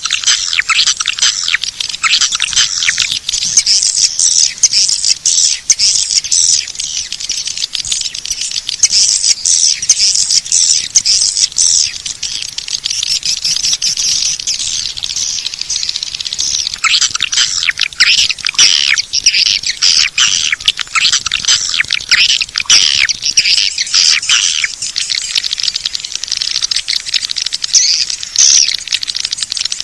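Swiftlet lure call: a dense, rapid twittering and chirping of many swiftlets, a recorded call track used to draw the birds into a swiftlet nesting house. It thins to a higher, quieter twitter for a few seconds midway, then becomes dense again.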